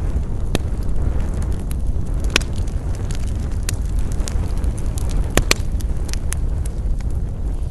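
Wood campfire burning: a steady low rumble of flames with scattered sharp crackles and pops, the loudest two in quick succession about five and a half seconds in.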